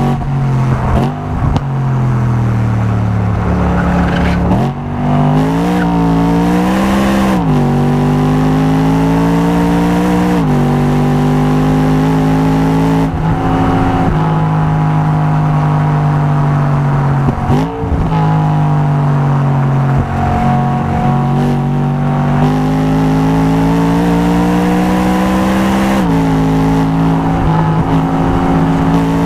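Car engine and sports exhaust running hard on a race track, its pitch holding for long stretches and then dropping or swinging up and down several times as the car shifts gear and brakes into corners.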